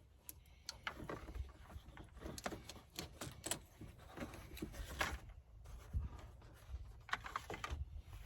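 Irregular clicks, knocks and light rattles of tools and parts being handled during hand work. The loudest knock comes about five seconds in and a quick cluster follows near the end.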